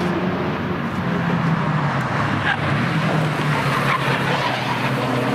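Cars driving past at speed on a racetrack, engines running hard. One car's engine note fades about halfway through and another comes in near the end.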